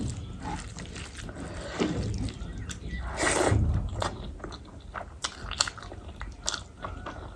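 Close-miked eating sounds: a person chewing and biting food, with frequent small wet clicks from the mouth and a louder noisy burst about three seconds in.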